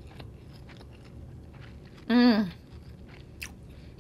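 Close-up chewing of a mouthful of egg noodles, with faint wet clicks of the mouth; about two seconds in, a short loud hum from the eater's voice, its pitch wavering and then dropping.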